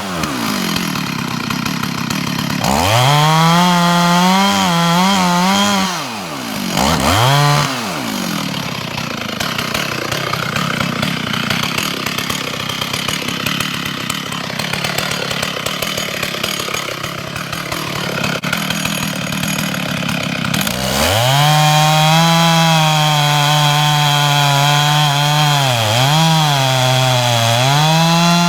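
Large-bar chainsaw revving and cutting the wedge (face) cut into the base of a dead hemlock. It revs up twice early, runs lower and rougher for a stretch, then holds full throttle from about two-thirds of the way through, its pitch dipping briefly under load in the cut.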